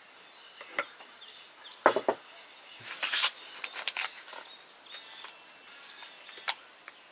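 Woodland outdoor ambience with faint birds chirping, broken by a few sharp clicks and knocks, the loudest about two seconds in, and a short rustling burst about three seconds in.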